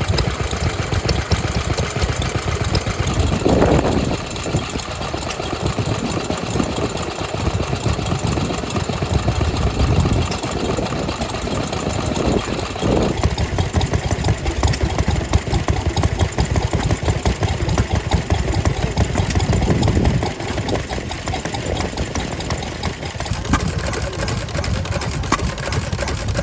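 Old stationary engines running at a rally display, with a steady, rapid chugging beat, plus wind buffeting the microphone. There are a few louder swells along the way.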